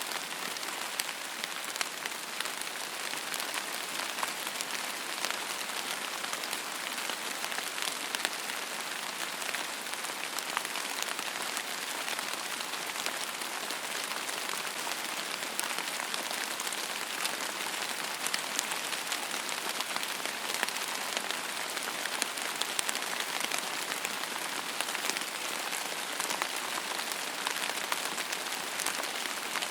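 Steady rain falling, a dense even hiss with many close individual drops pattering on a surface.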